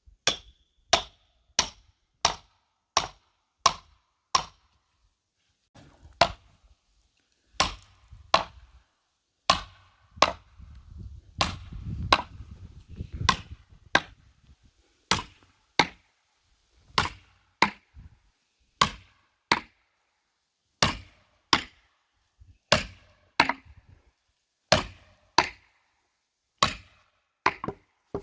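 A hammer strikes the steel head of an axe set in a large log, over and over, driving it in to split the wood: sharp, ringing blows about every two-thirds of a second. A low rumble runs through the middle stretch.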